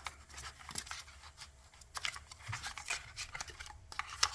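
Tarot and oracle cards being handled: flipped, slid and set down against one another, giving an irregular run of light clicks and soft papery rustles, with a sharper snap near the end.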